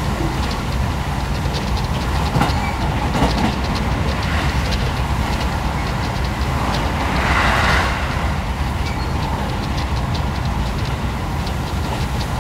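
Train carriage running along the track, heard from inside: a steady low rumble with scattered light clicks from the rails. There is a brief louder rush about seven seconds in.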